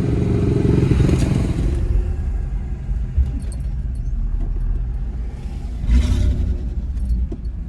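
Land Rover Discovery II's V8 pulling the truck along, heard from inside the cabin as a rough, low rumble, louder in the first two seconds and swelling briefly about six seconds in. The engine has a severe misfire.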